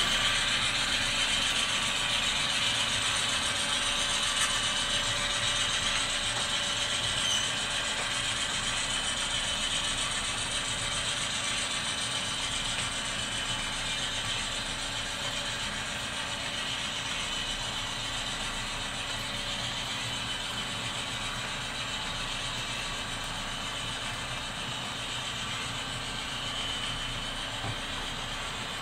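HO-scale model freight train of covered hoppers rolling past on the track: a steady clicking, rattling wheel-and-rail running noise that slowly fades as the train moves along.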